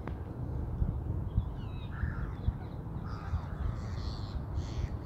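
Birds at the pond giving harsh, caw-like calls, a few short calls about a second and a half in and then several in quick succession through the second half, over a steady low rumble.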